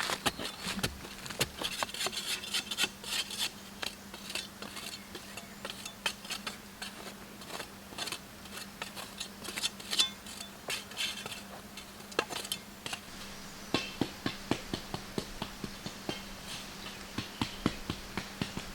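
Irregular light clicks and knocks of hard objects being handled, many in quick succession, over a steady low hum.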